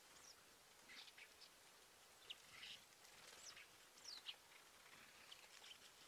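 Faint, scattered short bird calls and chirps, a few of them quick falling notes, over a steady outdoor hiss.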